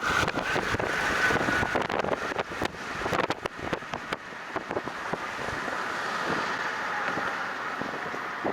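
Car driving off, with a steady rush of tyre and wind noise and many scattered clicks and taps.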